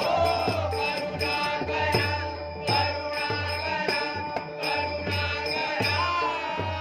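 Marathi devotional bhajan music: held harmonium-like chords over a steady drum beat of about two strokes a second, with small hand cymbals clinking and a voice briefly sliding in pitch near the start and again near the end.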